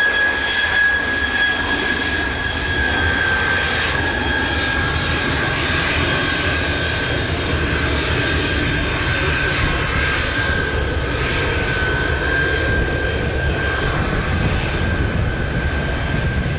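Jet airliner's engines running, with a steady high whine that drifts slightly lower over a broad rushing noise. A deeper rumble builds up in the second half.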